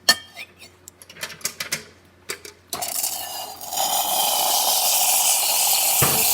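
A series of sharp clicks and knocks, then the Quick Mill Monza espresso machine's steam wand opens and hisses steadily, growing louder about a second after it starts.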